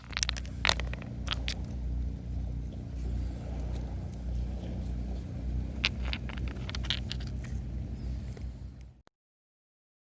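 Scattered clicks and scrapes of objects being handled, over a steady low rumble; the sound cuts off abruptly about nine seconds in.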